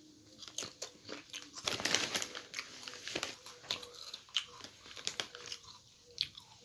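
A person crunching and chewing potato chips close to the microphone: a run of sharp crackles, densest about two seconds in.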